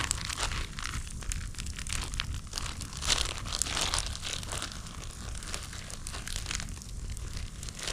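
Plastic bags and food packets rustling and crinkling as they are rummaged through in a search for the pepper, with many small clicks and crackles.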